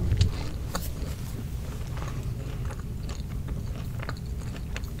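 Close-miked chewing of fast food: wet mouth sounds and many small crisp crackles, with a louder bite right at the start.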